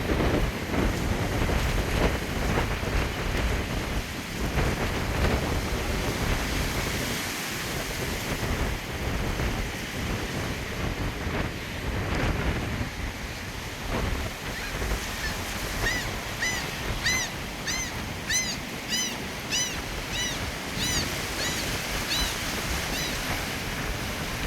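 Strong gusty wind buffeting the microphone over ocean surf breaking below the pier. From about two-thirds of the way in, a run of short, high, squealing calls repeats about twice a second for several seconds.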